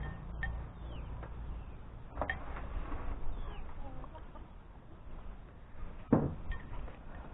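Chickens clucking with faint bird chirps, and a single knock about six seconds in.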